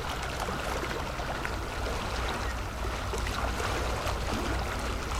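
Steady low engine rumble under a constant rushing hiss, the even background noise of a moving vehicle.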